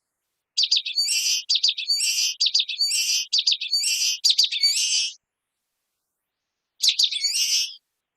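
Common waxbill singing: a run of about five quick phrases, each a few sharp high notes ending in a buzzy note, then a pause and one more phrase near the end.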